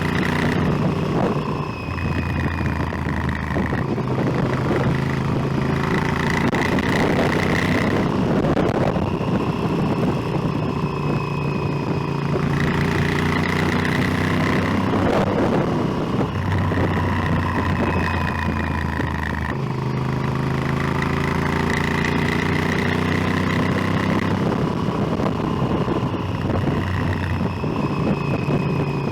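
Motorcycle engine running on the move, its note rising and falling every few seconds as the revs change, over a steady rushing noise.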